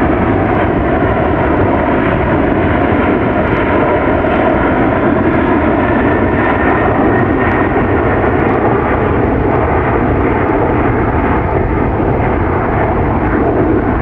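Airbus A380's four jet engines, a loud steady roar as the airliner flies its display, with a faint whine that shifts slowly in pitch.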